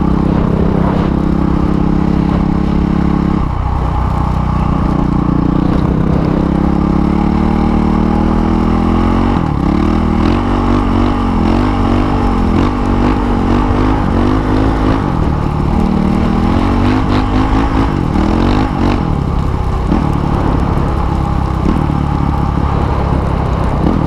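Dirt bike engine running under way, its pitch climbing as it accelerates, then dropping sharply at shifts or when the throttle is closed, with a quick wavering stretch in the middle.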